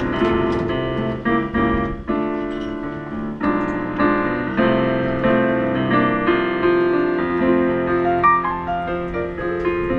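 Background music: piano playing chords and a melody, with notes changing every half second or so.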